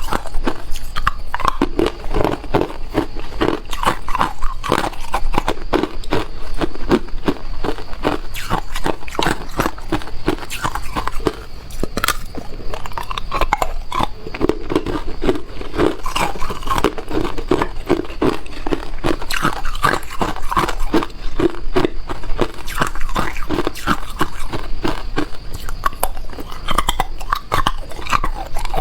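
Ice being bitten and chewed: a continuous run of loud crunches and crackles, with a short lull about eleven seconds in.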